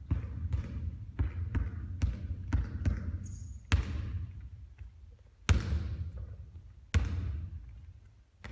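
Basketball bouncing on a court floor: a quick run of bounces about two a second, then three louder separate impacts, each with a long echoing tail.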